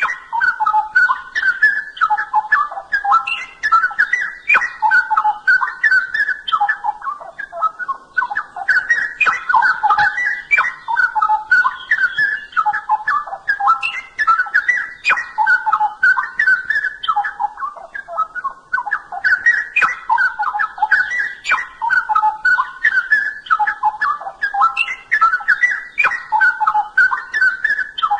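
Straw-headed bulbul (cucak rowo) singing loudly: rapid, whistled, warbling phrases several seconds long, separated by short pauses.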